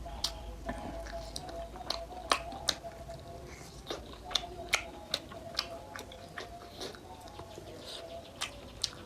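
Close-up eating of spicy mutton nalli: chewing and biting meat off the shank bone, with irregular sharp clicks and smacks from the mouth and bone.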